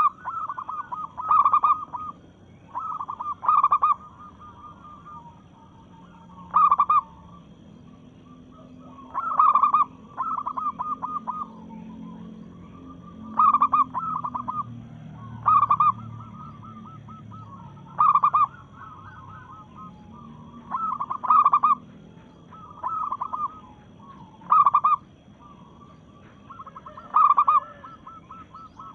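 Female zebra dove (local perkutut) calling: about a dozen short bursts of rapid, stuttering notes, one every two to three seconds, a call to a male. A faint steady high tone runs underneath.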